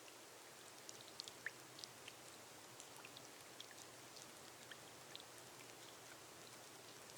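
Quiet, steady rain falling on a glass roof, with individual drops tapping sharply at random, several a second.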